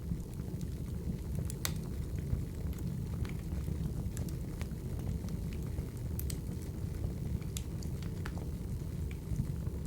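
Crackling wood fire: a steady low rush of burning logs with scattered sharp pops and snaps at irregular moments.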